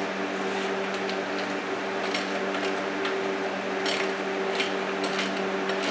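Wrench tightening 13 mm bolts and nylon lock nuts on a steel receiver mount: a few scattered metallic clicks and scrapes, mostly in the second half, over a steady background hum.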